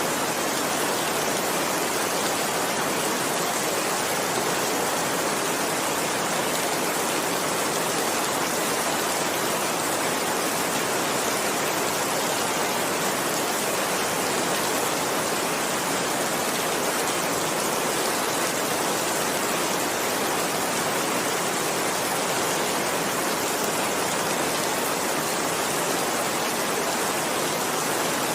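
Steady heavy rain: an even, unbroken hiss of falling rain.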